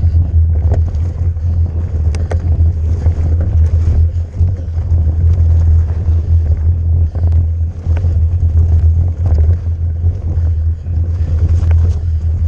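Heavy wind rumble on the microphone and the rattle of an e-mountain bike riding fast down a rough trail, with a few sharp clicks and knocks scattered through.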